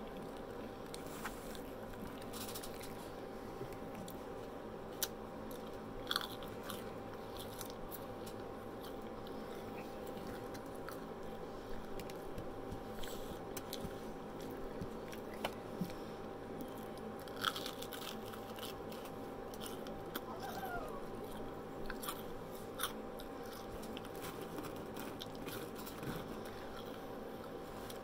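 Close-up eating of crispy fried onion rings: scattered crunching bites and chewing, over a faint steady hum.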